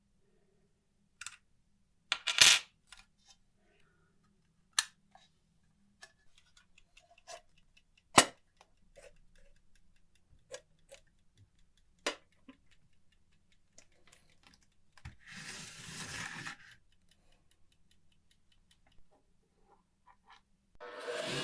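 Sparse sharp clicks and small metallic clinks of parts being handled on a workbench, about half a dozen louder ones spread out, with a short rough rubbing noise lasting a second and a half about two-thirds of the way through. A small motorised tool starts running right at the end.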